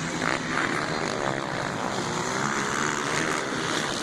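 Motocross dirt bike engines running steadily.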